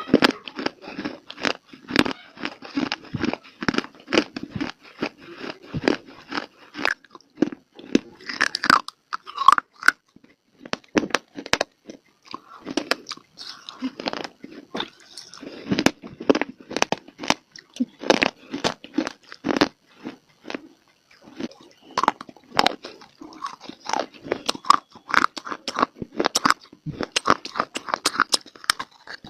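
Close-up biting and crunching of hard dry clay (mitti), with chewing between bites: many sharp crunches in quick succession.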